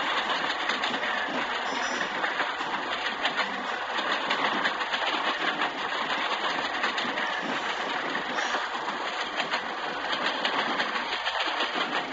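Train running along the rails with a steady rumble and the light clatter of wheels over the track.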